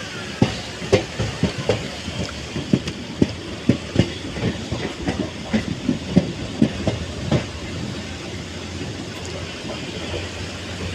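Train wheels clacking over rail joints: a quick series of sharp knocks, about two a second, for roughly the first seven seconds. After that they stop and only a steady rumble and hiss remain.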